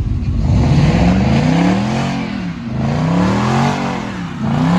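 Car engine revving hard, its pitch climbing and dropping back three times.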